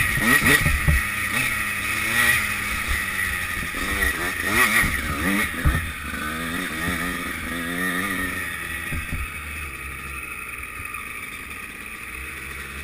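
Motocross bike engine revving up and down with knocks from the bumpy track, then easing off to a quieter, steady run about nine seconds in as the bike slows.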